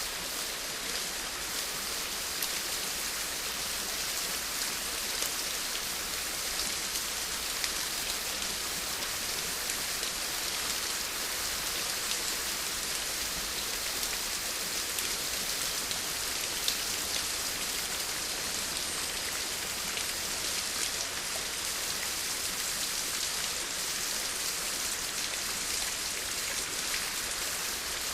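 Steady rain falling: an even hiss, strongest in the upper range, with faint scattered ticks of single drops.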